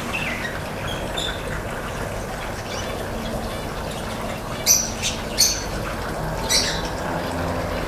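Cockatiel giving three short, sharp squawks in quick succession about two-thirds of the way in, over a steady background hiss.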